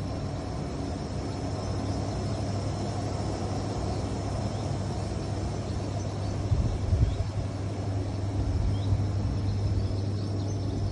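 Outdoor whirlpool's pump motor running with a steady low hum over a rumbling noise bed, with a brief louder rustle a bit over halfway and faint bird chirps.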